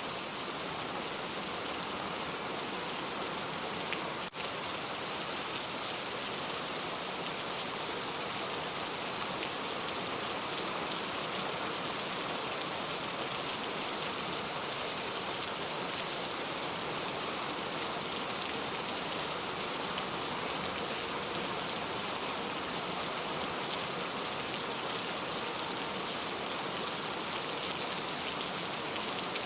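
Steady rain falling, an even hiss of drops. A brief click with a short dip in level about four seconds in.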